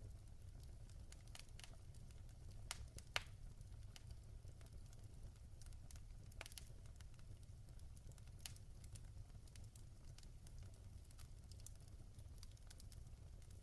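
Logs burning in a fireplace, faintly crackling with scattered sharp pops, the loudest about three seconds in, over a low steady rumble.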